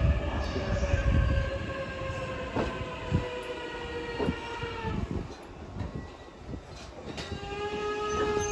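Electric commuter train slowing as it pulls into a station platform. A whine falls in pitch, and the wheels knock over rail joints a few times. Near the end a steady high squeal sets in.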